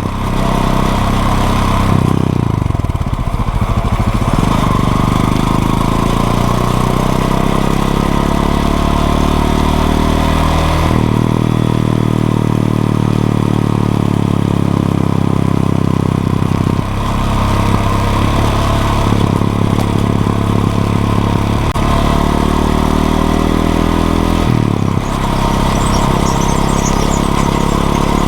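Honda XRE 190's single-cylinder four-stroke engine on the move: it slows with a falling pitch early on, then revs up and shifts up several times, its pitch climbing and dropping back with each gear change.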